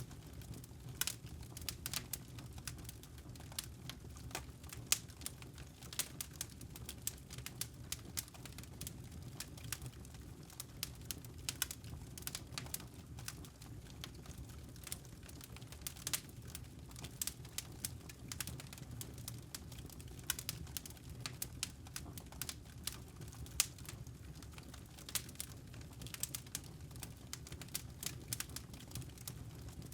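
Wood campfire crackling: irregular sharp pops and snaps over a low steady rumble of the burning fire.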